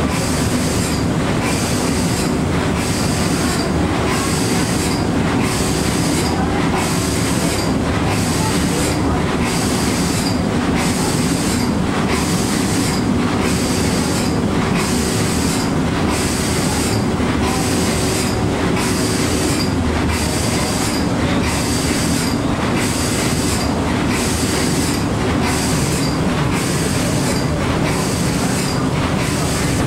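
Steam engine running under way, with a regular hissing beat about once a second over a steady low rumble.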